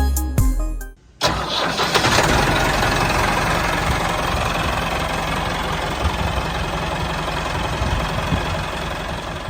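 Background music stops about a second in. An engine then starts up and keeps running steadily, growing slightly quieter toward the end.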